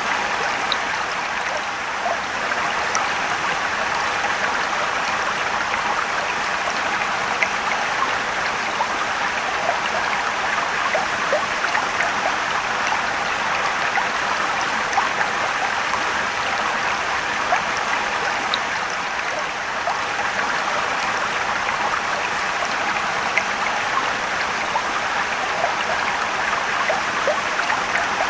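Mountain stream water rushing and trickling: a steady wash of water with small splashes and drips scattered through it.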